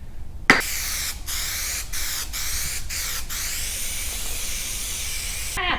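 Aerosol can of spray adhesive hissing in a long spray of about five seconds, broken four times by brief pauses.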